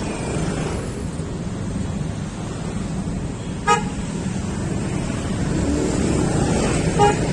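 Steady rumble of wind and road traffic during a ride, with two short vehicle-horn beeps, one about halfway through and one near the end.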